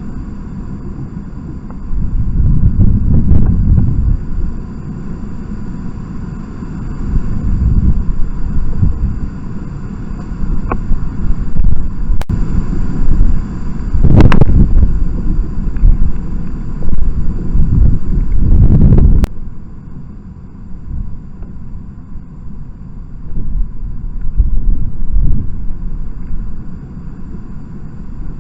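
Wind buffeting the trail camera's microphone: a low rumbling noise that swells and drops in gusts every few seconds, with a few sharp knocks in between.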